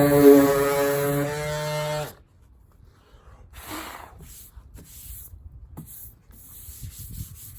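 Electric sander running with a steady motor hum, switched off about two seconds in and spinning down quickly. Afterwards only faint rubbing and handling sounds on the sanded body panel.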